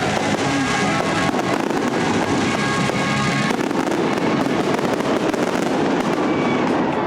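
A dense barrage of fireworks, many rapid overlapping bangs and crackles, with the show's music soundtrack playing underneath.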